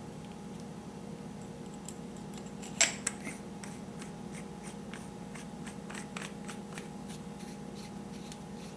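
Small metal parts of an air rifle's valve being handled: one sharp click about three seconds in, a smaller one just after, then a run of faint light ticks and taps, over a steady low hum.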